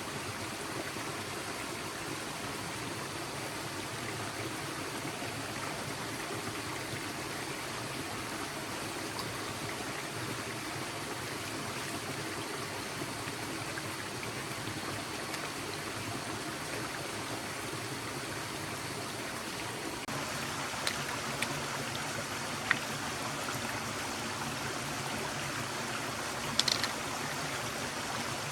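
Forest stream flowing steadily with a rushing, trickling sound. In the last third it grows a little louder, and a few short sharp clicks sound over it.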